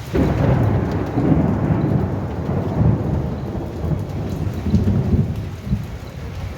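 Thunder breaks out suddenly and rumbles deep and loud for about six seconds, easing off near the end, over steady rain.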